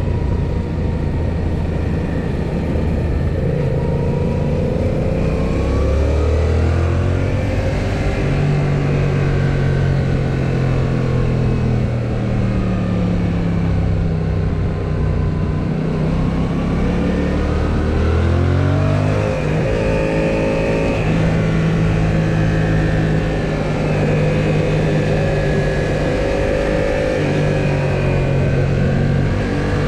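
2018 Yamaha XSR700's 689 cc parallel-twin engine running under way, its note rising and falling with the throttle and climbing sharply about nineteen seconds in, over steady road and wind noise.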